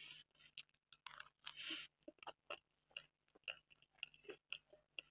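Close-up mouth sounds of a person chewing soft butterscotch cake: irregular wet clicks and short smacks, with one slightly longer chewing smack about a second and a half in.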